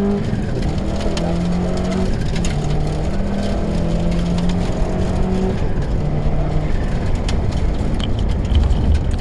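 Rally car engine heard from inside the cabin, running hard along the stage, with road and tyre noise. Its note holds steady for stretches, then drops and picks up again at a new pitch, with scattered sharp clicks over the top.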